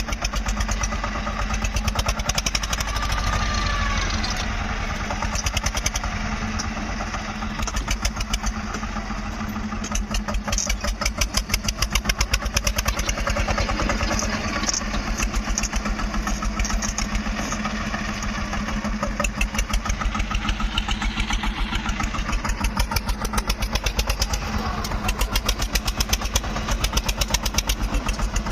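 Tractor's diesel engine running with a fast, even beat that swells louder at times as it is worked.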